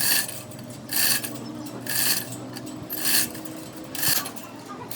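Rhythmic rasping strokes on metal, about one a second, each short and hissy, over a steady low hum.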